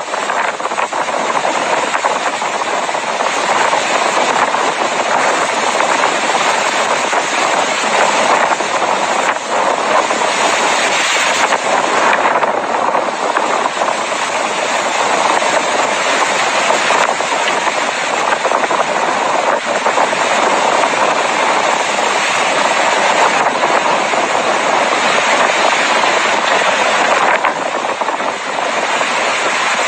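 Tornado winds: a loud, steady rushing noise with no break, the wind also buffeting the microphone.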